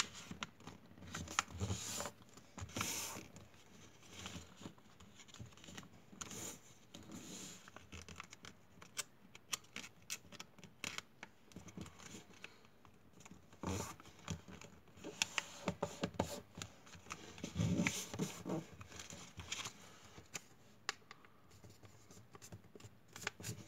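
Irregular rustling, scraping and light tapping of hands handling the material of a homemade model plane, with busier stretches a couple of seconds in and again near the middle and two-thirds of the way through.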